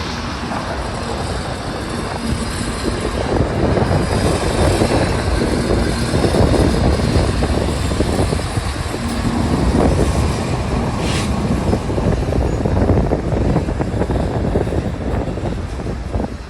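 A train passing: a steady rumbling noise of wheels and rolling cars on the rails that grows a little louder in the middle and eases near the end.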